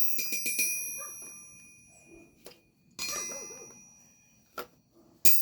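Steel ball bearing dropped on a steel anvil, bouncing in a run of quickening small strikes while the anvil rings with a high tone that fades over a second or two. A second drop comes about three seconds in, and a fresh strike sets it ringing again at the very end.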